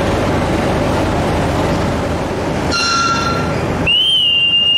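Steady rumble of a train at a station platform, then two high-pitched signal blasts: a short one about three seconds in and a long, piercing one starting near the end.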